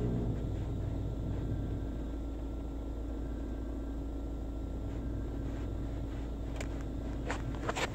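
Steady low rumble heard inside the cabin of a car idling in a touch-free car wash, with a faint steady hum over it and a few sharp clicks near the end.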